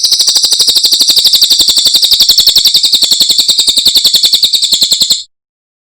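Cililin bird singing a loud, fast trill of high, evenly repeated notes, about ten a second, that cuts off sharply about five seconds in.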